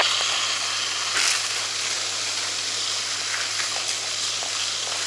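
Steady hiss of water spraying from a fire hose onto burning ground, with a faint steady low hum underneath.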